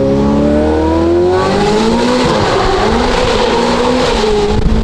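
Ferrari F8 Tributo's twin-turbo V8 through a full catless Ryft exhaust, revving in a steady rising pull for about a second and a half, then dipping and climbing again as the car keeps accelerating.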